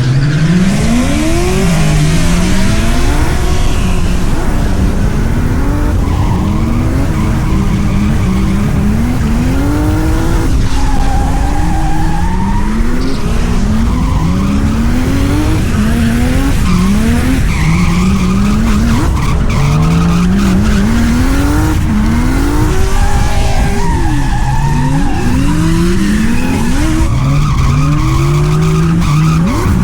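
Turbocharged 2JZ inline-six in a Genesis Coupe drifting: the engine revs up and drops back over and over, every second or two, with the tyres skidding and squealing under it.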